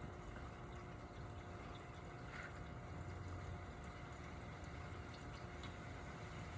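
Steady rain falling, heard faintly, with scattered small drips and ticks.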